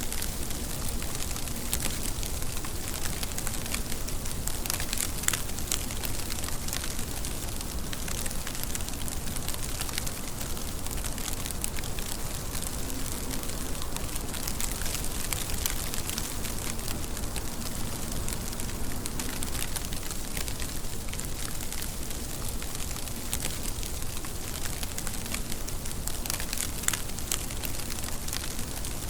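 Steady rain falling, a constant hiss with many individual drops ticking and pattering on a surface.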